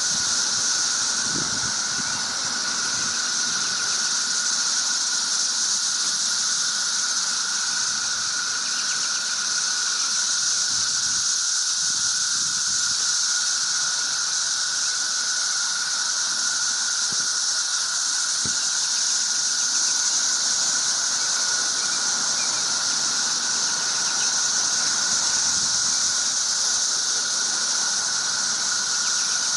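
Dense chorus of cicadas: a steady, unbroken high hiss with a lower ringing tone beneath it.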